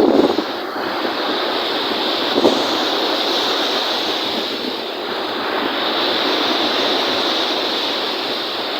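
Wind-driven lake waves washing in, a steady rush of water with a brief sharper surge about two and a half seconds in.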